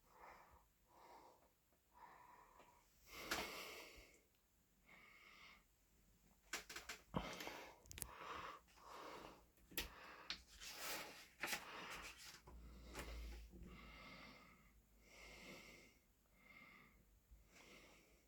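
Near silence with faint, irregular short rustles and breaths close to the microphone.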